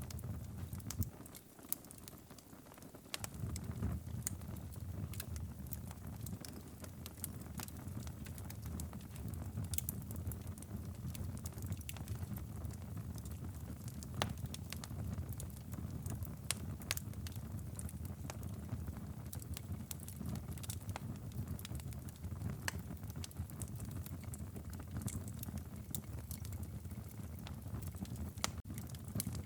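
Wood fire crackling in a fireplace: a steady low rumble of flames with frequent sharp pops and snaps. The low rumble drops away briefly about two seconds in.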